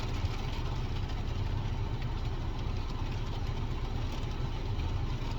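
Rain falling on a car roof, heard from inside the car as a steady even hiss, with a steady low rumble underneath.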